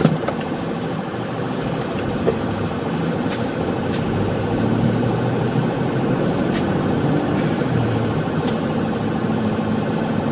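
Pursuing patrol car driving, its engine and tyre noise steady, the engine note growing a little stronger about four seconds in as it pulls away, with a few faint short ticks.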